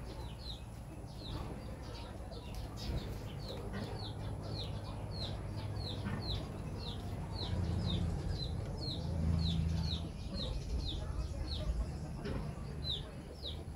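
A bird calling with a steady series of short, high chirps, each falling in pitch, about two a second, with a brief pause near the end. A low rumble runs underneath.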